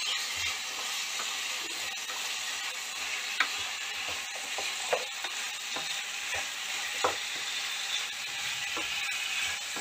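Diced lanku (chayote) frying in a black kadai while being stirred with a wooden spatula: a steady sizzle, with a few sharp knocks of the spatula against the pan.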